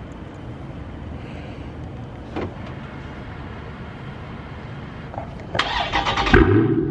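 A single click, then about five and a half seconds in the Dodge Charger Scat Pack's 392 (6.4-litre) Hemi V8 cranks on the starter and catches with a loud start-up flare, running out through 5-inch Carven exhaust tips.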